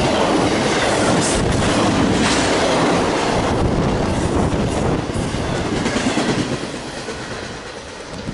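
Double-stack intermodal container well cars of a CSX freight train rolling past, their wheels rumbling and clacking on the rails. The sound fades over the last few seconds as the end of the train passes and moves away.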